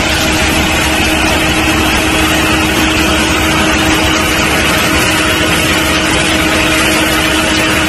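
A vehicle running steadily: a constant engine hum with two steady tones under a loud, even hiss.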